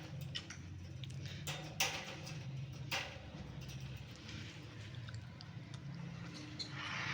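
Low steady room hum with a few short, sharp clicks, the two loudest about two and three seconds in.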